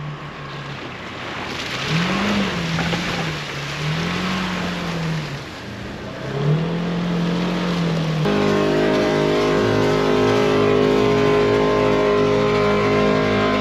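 Polaris Ranger Northstar UTV engine revving up and dropping back several times, with a hiss of spray as it pushes through water and slush. About eight seconds in it cuts suddenly to a steady drone of several held tones.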